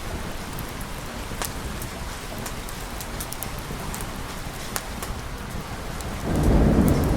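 Steady rain with scattered sharp ticks of drops. Near the end a thunder rumble sets in suddenly, louder than the rain.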